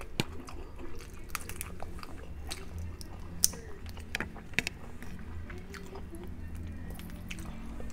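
Close-miked eating of garlic butter shrimp and crab: wet biting and chewing with scattered sharp clicks and crunches, the loudest about three and a half seconds in and again just after four and a half seconds.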